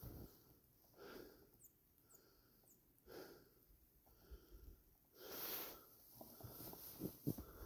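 A person breathing hard, with slow, deep breaths about every two seconds, then a few crunching footsteps in snow near the end.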